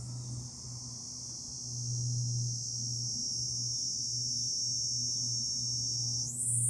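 Cicadas in summer chorus, a steady high buzz; near the end the buzz steps up in pitch and gets louder. A low, uneven rumble runs underneath.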